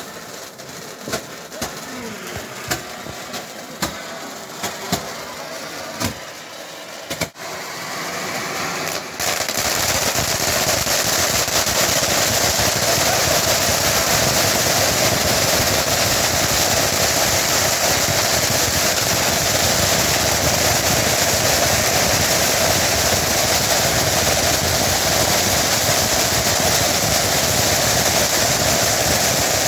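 Firework fountain: a few scattered sharp pops, then about nine seconds in the fountain ignites and sprays with a loud, steady hiss that keeps going to the end.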